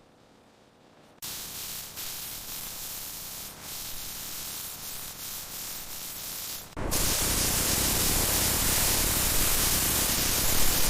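A steady hiss that starts about a second in, after near silence, and turns much louder about seven seconds in.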